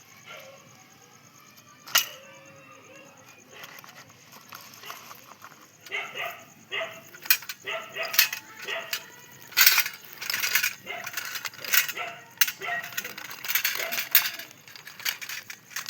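Dog barking rapidly and repeatedly, starting about six seconds in, several barks a second. A single sharp click comes about two seconds in.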